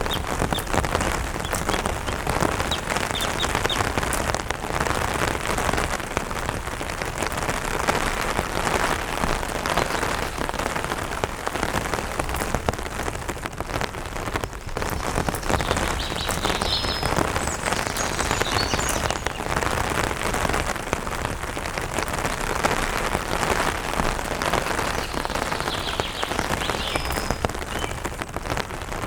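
Light rain falling steadily on an umbrella canopy in a dense run of drop hits. A few faint, short high bird chirps come through about halfway through and again near the end.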